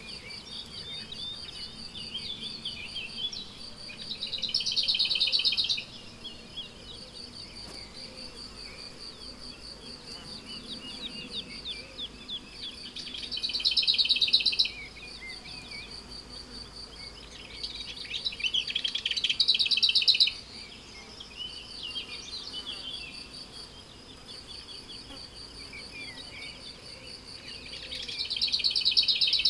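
Meadow insects, crickets among them, keep up a steady high pulsing trill while several small birds sing and chirp. A louder buzzing phrase of a second or two comes four times, roughly every eight to nine seconds.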